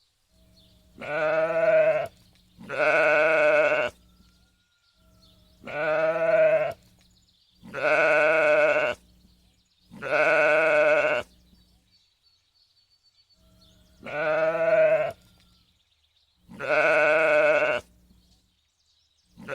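Sheep bleating: a series of about seven long, wavering bleats, each lasting over a second, with short pauses between them.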